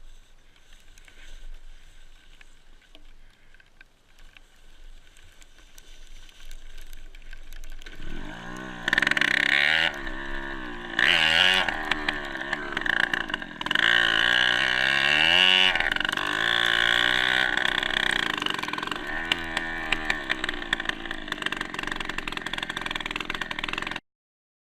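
Dirt bike engine revved over and over, its pitch rising and falling in repeated sweeps, starting about eight seconds in and cutting off suddenly near the end.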